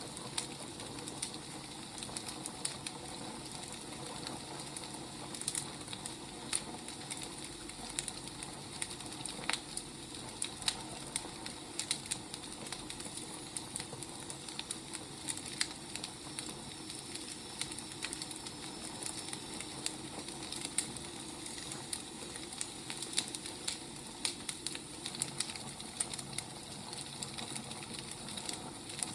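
Burning firewood crackling, with irregular sharp pops and snaps over a steady low hiss.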